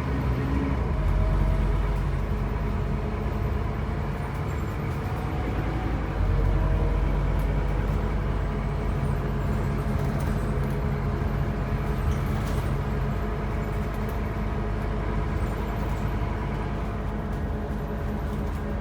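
Scania N270UB OmniCity bus running, its diesel engine droning steadily under road noise. The engine gets louder about a second in and again around six seconds in, then settles.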